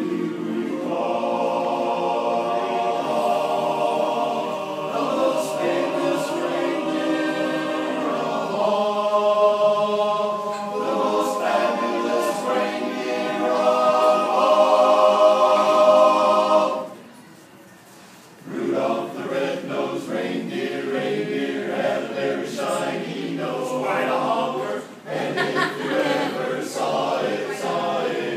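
A choir singing held chords together. The singing breaks off for a moment about two thirds of the way through, then comes back in shorter phrases.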